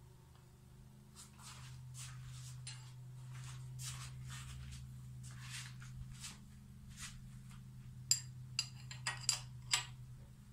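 Steady low hum of a vintage milling machine's motor under a run of scraping, swishing strokes, then several sharp metallic clinks close together near the end.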